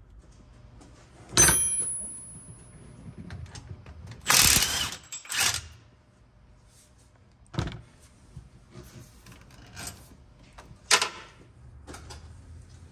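Hand tools knocking on metal: a 15 mm swivel socket and wrench set on and worked at the steering intermediate shaft bolt. Sharp clinks and clacks come at intervals, one ringing clink about a second and a half in and the loudest clatter a little after four seconds.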